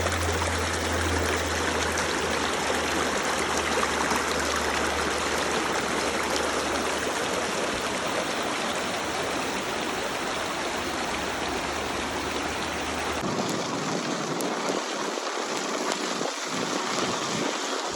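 Steady rush of a flowing forest stream. A low rumble underneath drops out about thirteen seconds in, where the sound changes abruptly.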